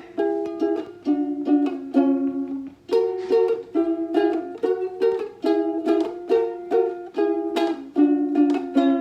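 Ukulele being strummed in a steady rhythm, chords changing every second or so, in a small room.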